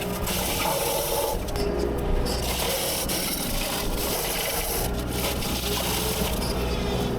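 Heavy machine engine running steadily, with a wavering whine, while wood and brush scrape and rasp.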